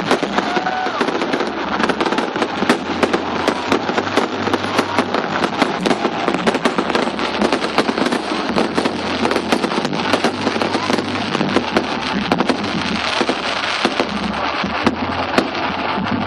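Fireworks display in progress: a dense, continuous crackle of pops and bangs, many a second, with no pause.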